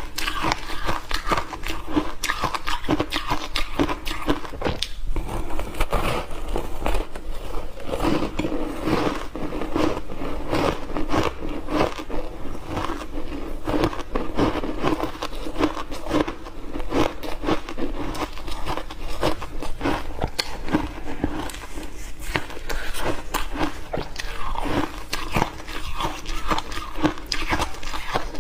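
Refrozen block ice being bitten and chewed, with dense, irregular crunching and cracking.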